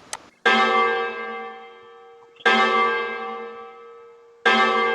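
Church bell sound effect playing: the bell is struck three times, about two seconds apart, each stroke ringing and slowly fading. A short click comes just before the first stroke.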